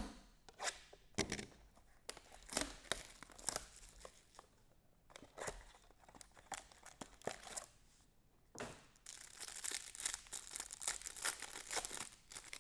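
Trading card pack wrappers being torn open and crinkled, with irregular crackles and clicks as the packs and cards are handled. The crinkling is thickest in a long run near the end.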